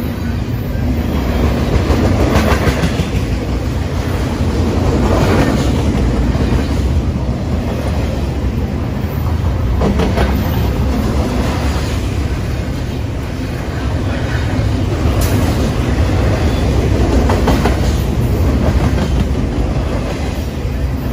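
A BNSF double-stack container train's freight cars rolling past close by: a steady heavy rumble of steel wheels on the rails with clickety-clack over the rail joints and a sharper clank every few seconds.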